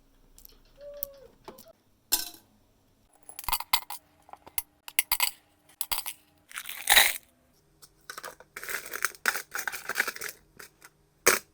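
Hands working at a bench: irregular scraping and rustling bursts mixed with sharp clicks and small knocks, the loudest scrape about seven seconds in and a sharp click near the end.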